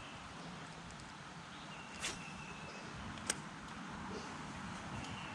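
Outdoor creek ambience: an even background hiss of flowing water, with a thin high note held about a second, heard twice, and two sharp clicks about a second and a quarter apart.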